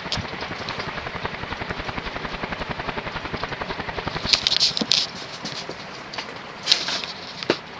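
Leading Edge Hi-Tech II 56-inch industrial ceiling fan running on high, its steel blades beating the air in a rapid, even, rhythmic whoosh. A few brief scratchy noises come partway through, and the pulsing gets a little weaker after about five seconds.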